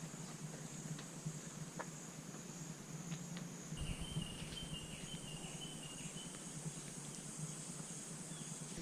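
Rainforest insect chorus: a steady, high-pitched shrill, joined about four seconds in by a lower, stuttering trill that lasts a couple of seconds.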